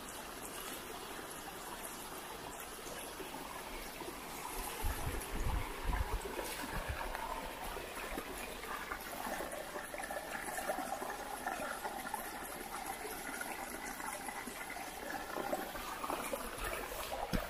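Running water trickling steadily, like a small stream, with a few low thuds about five seconds in.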